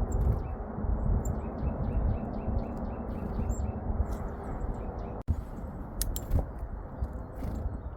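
Small songbirds chirping at a bird feeder over a steady low rumble, with a brief break in the sound just past halfway.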